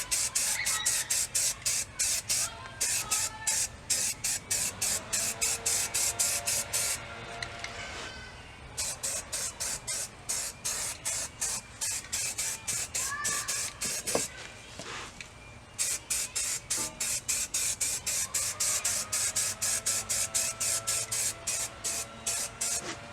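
Undercoating sprayed into the wheel well in rapid short bursts, about four or five hisses a second, with two brief pauses about a third and two thirds of the way through.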